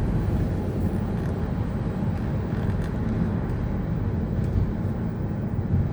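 Steady low rumble of a moving vehicle heard from inside, with road or running noise and a few faint ticks.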